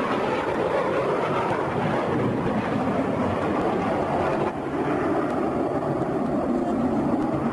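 Steady jet aircraft engine noise mixed with wind on the microphone, changing abruptly about four and a half seconds in.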